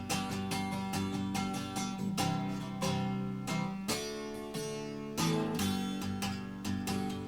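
Guitar music: chords strummed in a steady, brisk rhythm.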